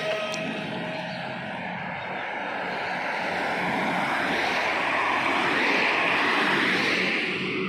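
A truck passing by on a highway, its engine and tyre noise swelling to a peak about five to seven seconds in, then easing slightly.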